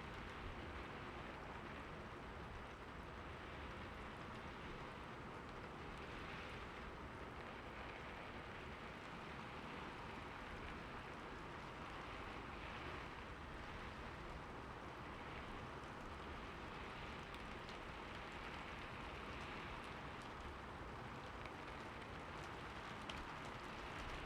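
Steady rain falling: an even hiss with scattered drops ticking, gently swelling and easing every few seconds.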